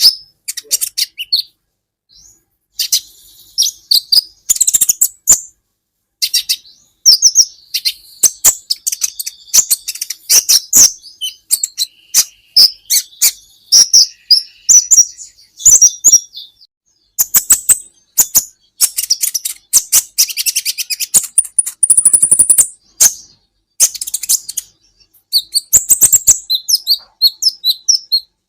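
Kolibri ninja (konin), a sunbird, singing a fast, high, chattering song of sharp chirps and trills in quick runs, with a short pause about two seconds in.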